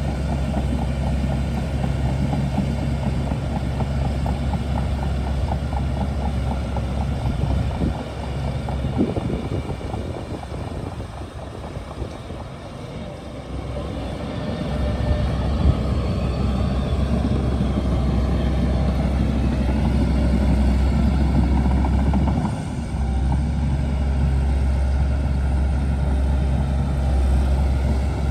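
Shantui DH17C2 bulldozer's diesel engine running steadily with a deep rumble. It eases off for several seconds about a third of the way through, then comes back up to full working load, with a brief dip later on.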